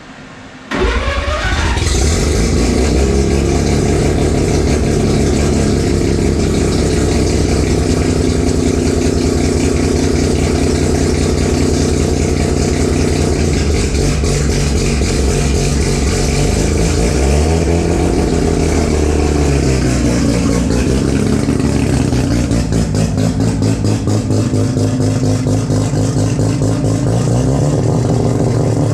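Street-ported, turbocharged 13B rotary engine in a Toyota Starlet drag car running and being revved, its pitch rising and falling. It comes in suddenly about a second in.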